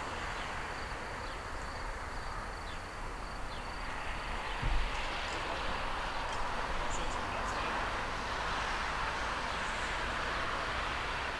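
Steady rushing noise of aircraft engines, with a faint high whine over the first few seconds and a brief low thump a little before the middle.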